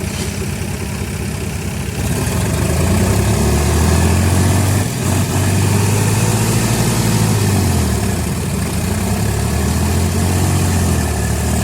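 Tractor engine running, then revving up about two seconds in and held high, with a brief dip midway and another easing and pick-up near the end, as the stuck tractor is driven to pull itself free.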